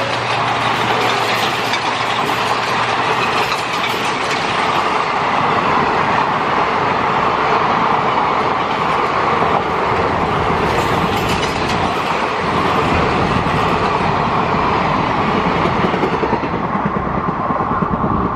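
A train running past at speed: a steady loud rush of wheels on rails with clickety-clack over the rail joints, its higher hiss thinning near the end.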